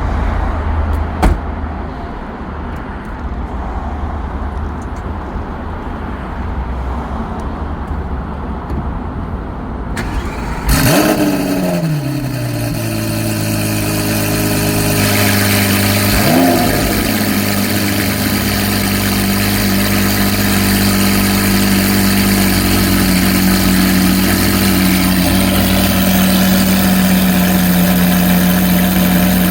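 Lamborghini Aventador SVJ's V12 engine with a Kreissieg F1 exhaust starting up: after a low rumble and a single knock about a second in, it fires about ten seconds in with a loud flare that falls quickly to idle. It then settles into a steady idle, with a brief blip of the throttle a few seconds later.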